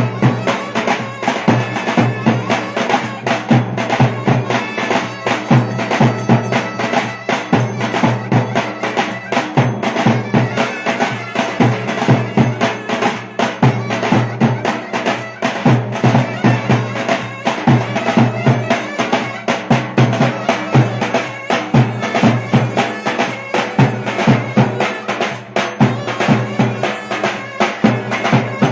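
Turkish folk dance tune (oyun havası) played on a shrill reed wind instrument over a steady, driving drum beat.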